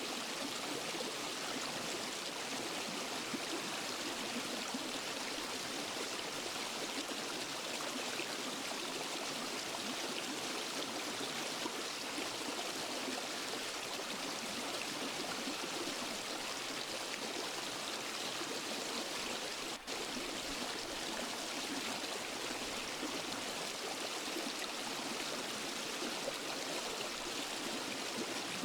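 Waterfall and forest stream, water rushing and splashing in a steady, even wash of sound, with one momentary dip about twenty seconds in.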